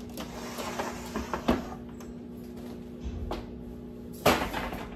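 Dishes and food containers being moved about on a kitchen counter: a run of small knocks and clatter in the first second and a half, and one sharp, loud knock about four seconds in, over a steady low hum.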